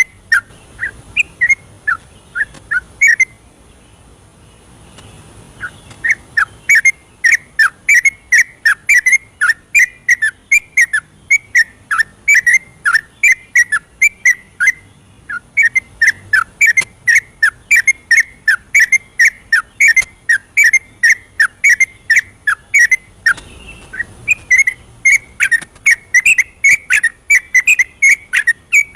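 Yellow-vented bulbul singing a long run of short, bubbly whistled notes, several a second. It breaks off for about three seconds after about 3 s, then carries on with a brief lull near the end.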